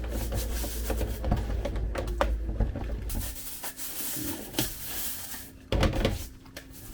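Scrubbing brush rubbing over the plastic base plate of a dishwasher filter assembly in quick scratchy strokes. A low rumble underneath cuts off about three seconds in, and there is a dull thump near the end.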